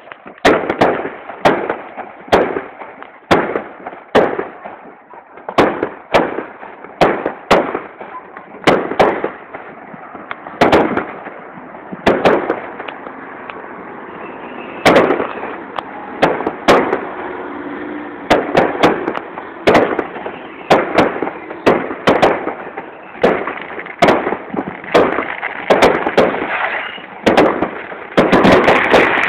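Fireworks display: a rapid string of bangs, about one or two a second, over a haze of crackling from the bursting shells, growing denser and louder near the end.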